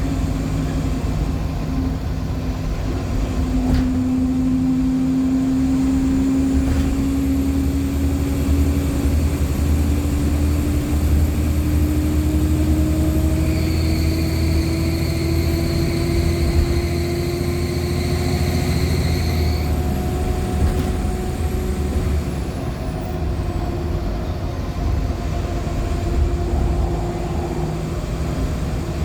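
Interior sound of a NOVA LFS articulated hybrid bus (Cummins ISL9 diesel with Allison H50 EP hybrid drive) under way: a steady engine hum with a whine that slowly rises in pitch as it gathers speed, and a faint high whistle over it. For about six seconds in the middle, a squealing tone sounds over the drive.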